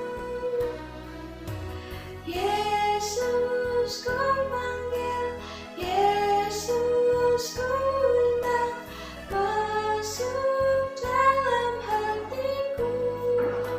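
Music: a woman singing a song with held notes over instrumental accompaniment.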